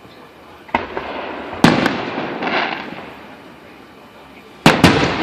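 Aerial fireworks bursting overhead. There is a single bang under a second in, a close double bang at about a second and a half, and another double bang near the end, each trailing off in a rumbling echo.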